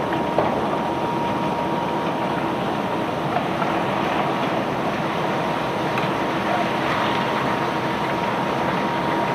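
Heavy unloading machinery running steadily with a constant whine, with a few sharp knocks now and then.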